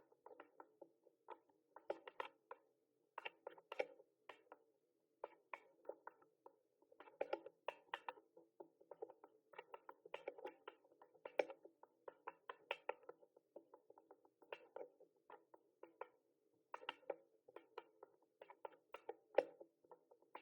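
Typing on a mechanical keyboard: quick runs of key clicks in irregular bursts, with brief pauses between runs.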